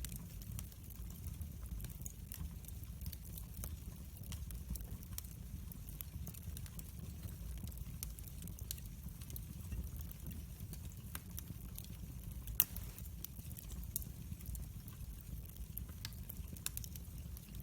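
Wood fire in a fireplace crackling, with scattered sharp pops over a steady low rumble and one louder pop about two-thirds of the way through.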